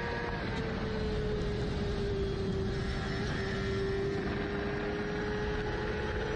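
Onboard sport bike riding at speed: a steady engine note over wind and road noise, the pitch sagging slightly in the middle and rising again, then fading out near the end.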